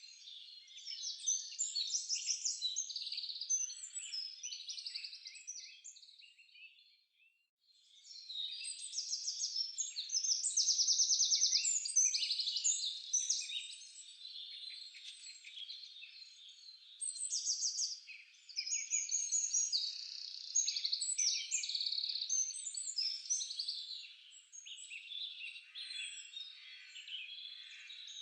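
Many small songbirds singing at once: a dense chorus of high chirps and rapid trills, broken by a pause of about a second some seven seconds in.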